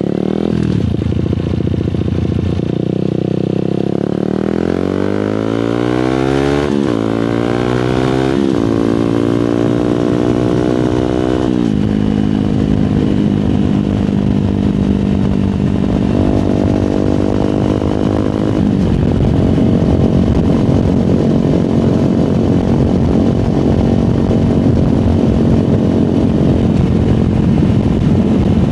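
Fantic Caballero 125 scrambler's single-cylinder four-stroke engine and exhaust, heard from the saddle. It accelerates up through the gears, its pitch rising and dropping at each of about three shifts over the first twelve seconds, then settles to a steady cruise with a couple of small changes in speed.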